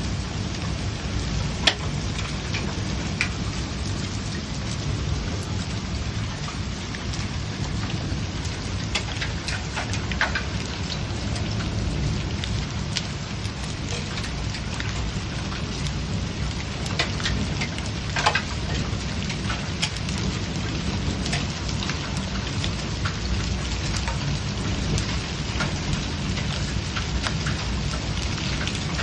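Small hail and rain falling: a steady hiss with many scattered sharp ticks of hailstones striking, the loudest about two seconds in and again just past the middle, over a steady low rumble.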